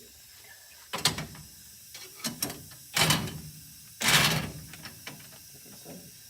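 Several sharp metallic knocks and clanks from brake parts and hand tools being handled, the loudest two about three and four seconds in, the last drawn out into a short clatter.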